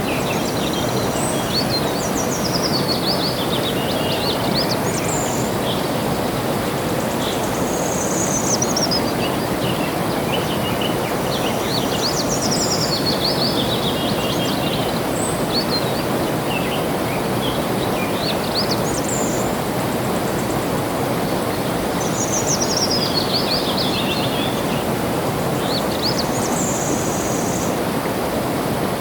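Steady rush of flowing water with a bird singing over it: a short, high, descending trilled phrase repeated every four to five seconds.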